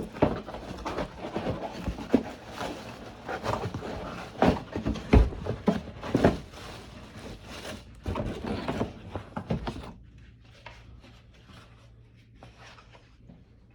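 Cardboard and plastic packaging being handled and pushed into a trash can: irregular rustling, scraping and sharp knocks for about ten seconds, then much quieter.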